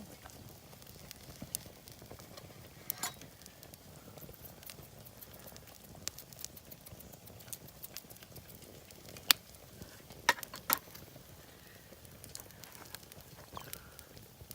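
A few scattered sharp clicks and taps over faint background noise, the loudest a pair close together about ten seconds in.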